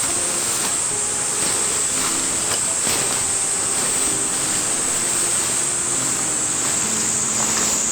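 Cicadas singing in a chorus, a steady high-pitched buzz over a steady hiss.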